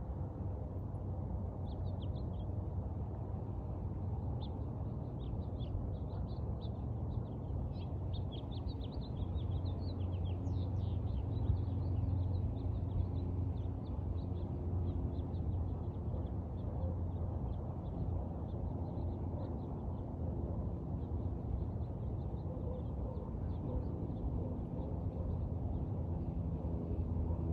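Small birds chirping and twittering in quick runs of short high notes, busiest in the first half and thinning out later, over a steady low rumble.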